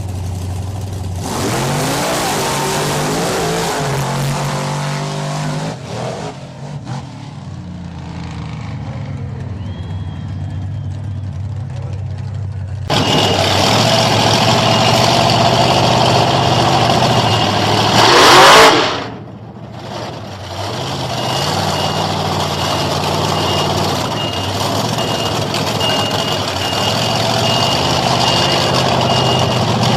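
Monster truck engine running and revving, its pitch rising and falling, with a brief loud burst about two-thirds of the way in. A vehicle's reversing beeper sounds steadily through the last third.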